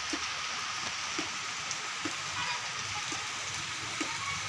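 Steady rain falling, an even hiss, with soft taps about once a second.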